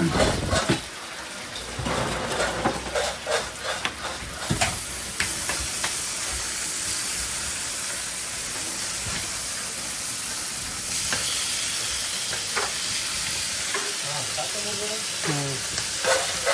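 Clatter and scraping of cooking utensils, then a steady sizzle of food frying in hot fat that starts about four seconds in and gets louder about eleven seconds in.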